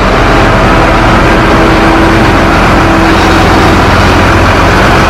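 Engine of a heavy construction machine running steadily at close range, with a low, even hum.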